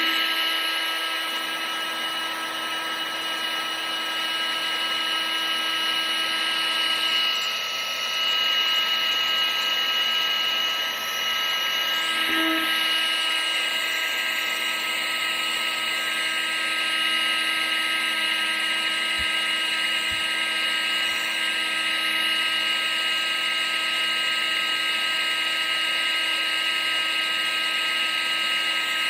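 Vacuum cleaner motor running continuously: a steady whine over an even rush of air, played as white noise.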